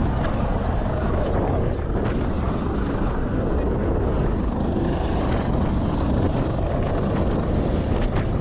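Steady engine rumble mixed with wind noise on the microphone, without a break.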